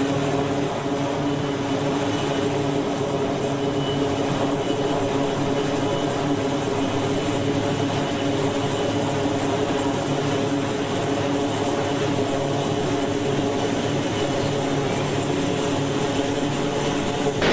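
Carrier aircraft engines running at a steady, unchanging pitch: a constant drone with a low hum and a higher tone above it.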